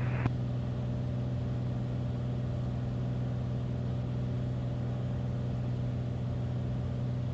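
Beechcraft Bonanza's piston engine and propeller droning steadily in the cockpit at approach power on final approach, one low unchanging tone with overtones.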